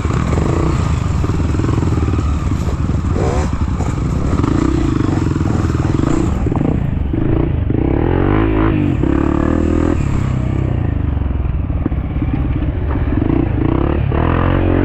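Dirt bike engine running hard, its pitch rising and falling as the throttle is worked.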